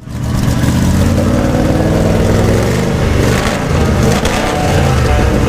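A car engine running at idle with a low, steady note that is briefly unsettled about three seconds in.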